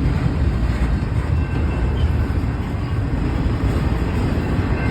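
Cars of a long freight train rolling past, a steady noise of wheels on the rails.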